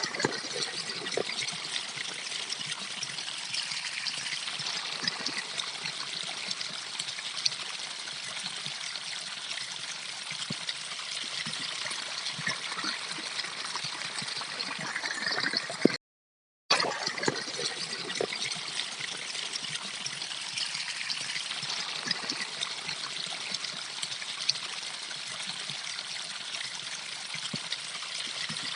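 Stream water trickling and babbling over stones: a steady splashing rush full of small drips and splashes. It cuts out abruptly for under a second about halfway through, then resumes.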